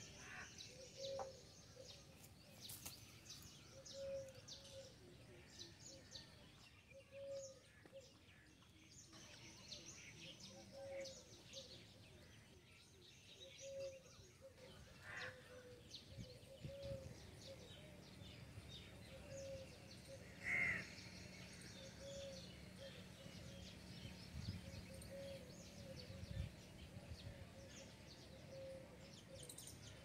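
Faint outdoor bird calls: a bird repeats a short low note at an even pace, about once every second and a half, with one louder short chirp about twenty seconds in, over a soft background hiss.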